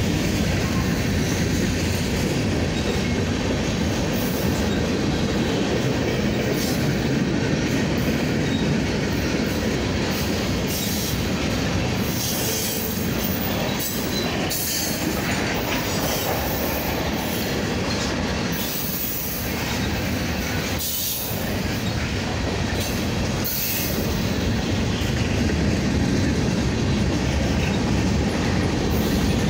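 Freight train cars (tank cars, covered hoppers, boxcars) rolling slowly past: a steady rumble of steel wheels on rail.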